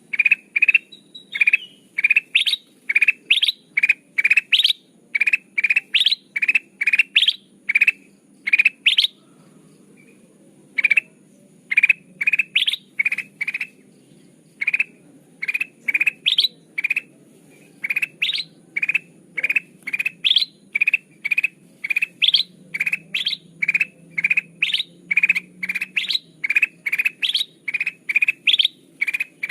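Kutilang emas (a bulbul) repeating its lure call: short rising chirps about two a second, with two brief breaks about a third and half of the way through.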